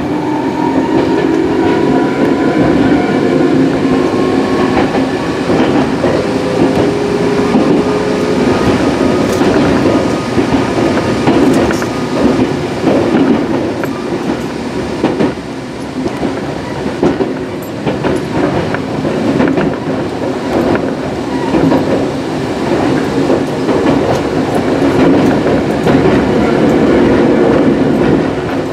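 Electric commuter train running on the Gakunan Railway line, heard from on board: a steady rumble with rail clatter. Over the first several seconds a whine rises slowly in pitch as the train picks up speed.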